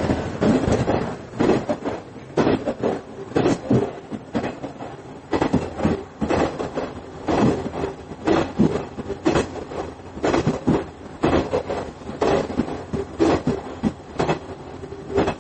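Interior running sound of a KiHa 110 series diesel railcar. The engine drone fades about a second in, leaving the wheels clacking over rail joints in quick pairs about once a second over a steady rumble.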